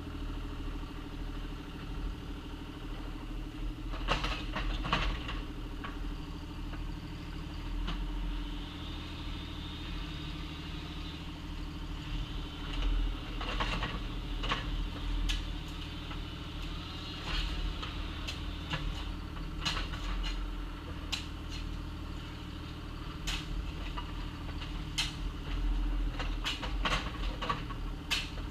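Bobcat excavator's engine running steadily while it digs, with scattered sharp clanks and knocks of the bucket in gravel, coming more often in the second half.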